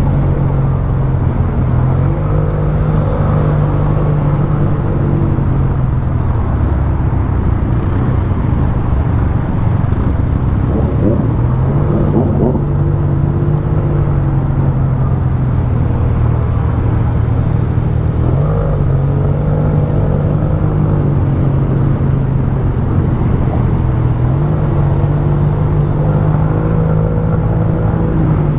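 Yamaha TMAX maxi-scooter's parallel-twin engine and exhaust running with a soft, even note. Its pitch rises a little and settles again three times.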